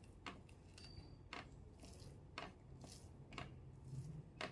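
Quiet eating sounds: faint, short wet clicks roughly once a second as rice and potol dolma are mixed and eaten by hand.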